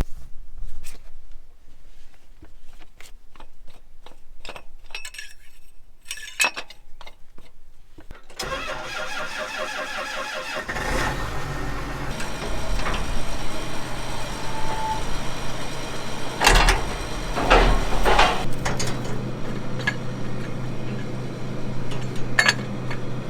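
A few scattered clicks and knocks, then a farm diesel engine is cranked by its starter for about two seconds, catches and settles into a steady idle: a cold start to warm it up. Several sharp knocks sound over the running engine.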